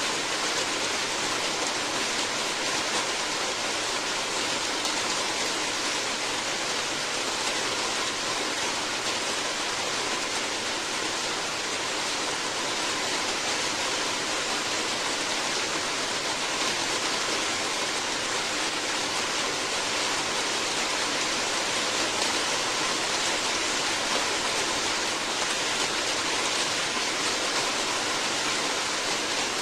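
Steady, even rain hiss with no single drops standing out.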